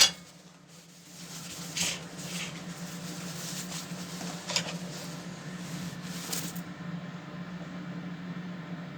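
Microwave oven running with a steady low hum, its homemade wooden turntable plate turning on rollers, with a few soft rubbing sounds in the first six seconds or so.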